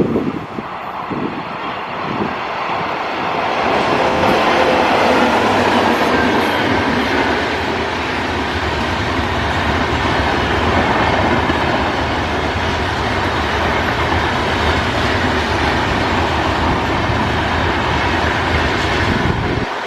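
Express passenger train hauled by an Indian Railways WAP-7 electric locomotive, passing at speed. Low, repeated wheel beats come first, then from about four seconds a louder, steady rush of coaches with clickety-clack over the rail joints.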